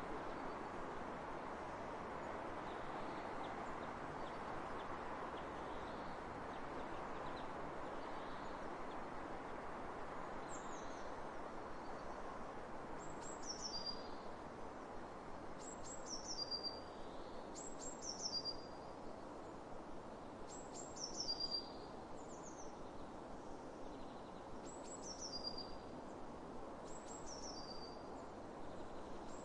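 Steady rush of wind across open fields. About a third of the way in, a songbird starts repeating a short phrase of high notes sliding downward, about every two to three seconds.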